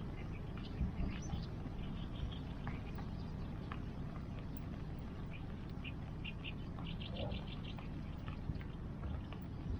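Bonfire crackling with occasional sharp pops over a steady rush of rain and river water. Short, rapid trains of high chirps, about eight a second, come and go over it, clearest about seven seconds in.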